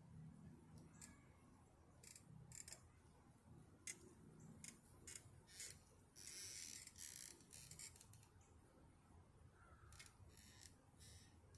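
Faint, irregular scrapes and clicks of a shovel digging into dirt, with one longer scrape about six seconds in.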